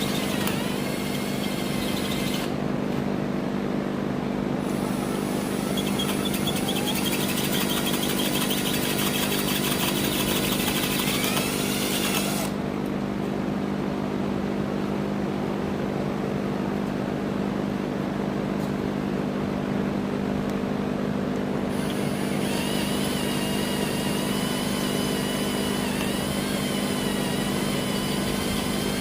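Electric drill running steadily as its bit bores through the steel rear trunnion of an AK-pattern Draco pistol. A higher, wavering whine from the bit cutting the metal comes and goes, dropping out twice.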